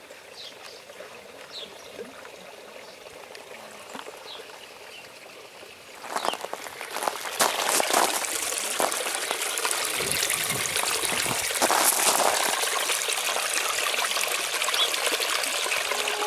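A few faint bird chirps, then about six seconds in a loud, rushing hiss like splashing water starts and runs on.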